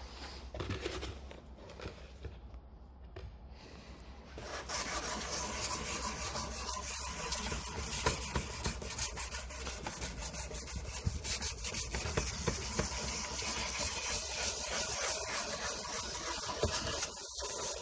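Sandpaper wetted with white spirit being scrubbed back and forth on a wing mirror cover, lifting sticky masking-tape residue. It is light for the first four seconds or so, then becomes a steady run of quick rasping strokes.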